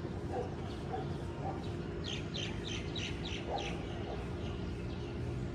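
A bird calling a quick run of about seven short, high chirps near the middle, over a steady low rumble of background noise.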